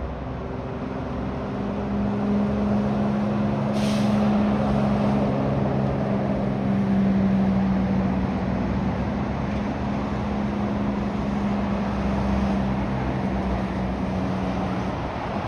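Heavy truck engine running steadily as it draws closer and then slowly eases away, with a short, sharp hiss of air-brake air about four seconds in.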